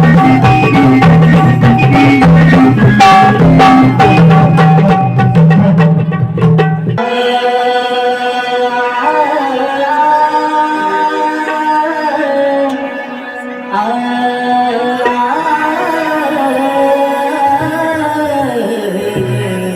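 Live folk devotional music: drums beat out a fast rhythm under held melody notes. About seven seconds in the drums stop, and a long, sliding sung melody carries on without percussion.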